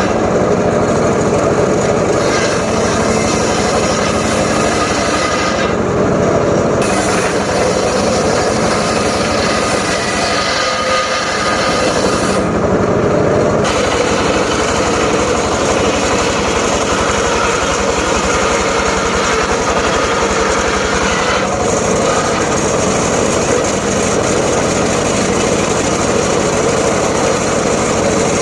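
Engine-driven homemade circular saw running loudly and steadily while cutting up johar wood. Its high hiss drops away briefly about six seconds in and again near thirteen seconds.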